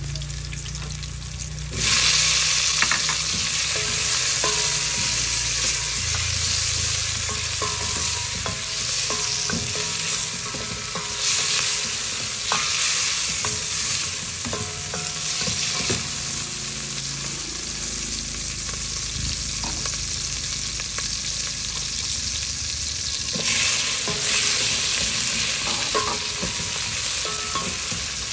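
Garlic, shallots, ginger, tomatoes and sliced eggplant sizzling in hot oil in a stainless steel pot, the sauté that starts the sinigang. A wooden spoon stirs and knocks against the pot. The sizzle gets suddenly louder about two seconds in and swells again twice.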